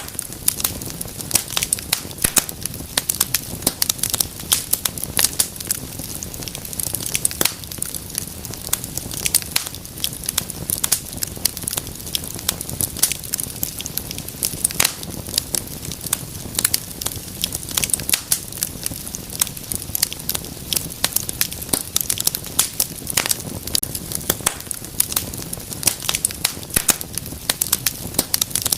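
Wood fire burning in a fireplace, with dense irregular crackles and pops over a steady low rumble of flames.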